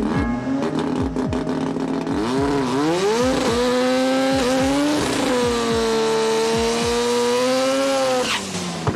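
Drag-racing car engine at full throttle: its pitch climbs, holds high for a few seconds, then drops near the end as it comes off the throttle. A music track with a steady beat plays underneath.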